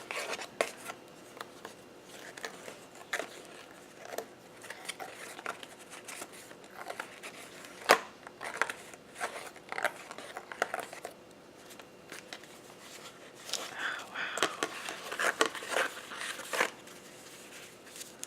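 Paper and cardstock being handled: irregular rustling, crinkling and light taps as pages of a handmade paper-craft binder are turned and items are slid out of its pockets, busiest near the end.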